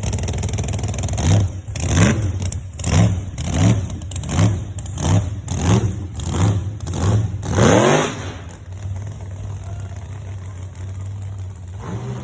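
Model A fuel altered pickup's engine blipped repeatedly from idle: about ten quick revs, each rising and falling, ending in one longer, higher rev. It then settles back to a steady idle.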